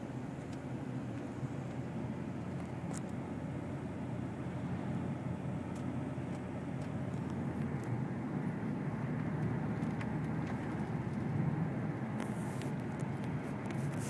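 Rushing floodwater under a bridge, a steady low rumble that swells a little in the second half.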